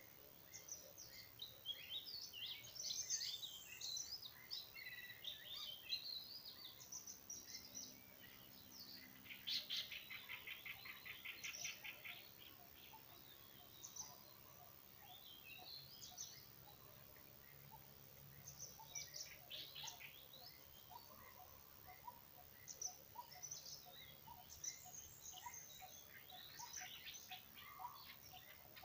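Several songbirds chirping and calling faintly, short high notes scattered throughout, with a fast trill of rapidly repeated notes about ten seconds in.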